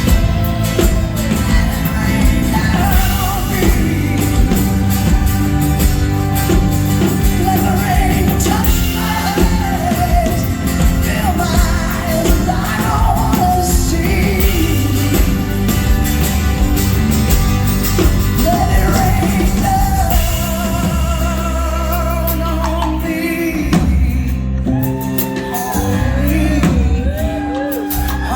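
Live rock band playing with a woman singing long, wavering wordless vocal lines over drums, bass and guitar. Near the end the cymbals drop back and the band thins out.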